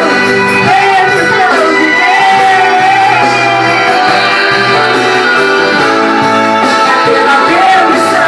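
Church worship music: a voice singing a melody over sustained instrumental accompaniment, loud and continuous.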